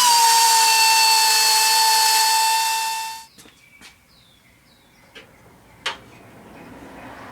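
A power tool running at a steady high whine over a loud hiss for about three seconds, then stopping, while nuts and bolts are taken off the motorhome's front end. A few sharp clicks and knocks follow.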